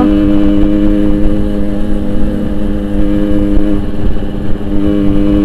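Yamaha RX-King 135cc single-cylinder two-stroke motorcycle running through a Boban aftermarket exhaust, holding a steady engine speed while cruising.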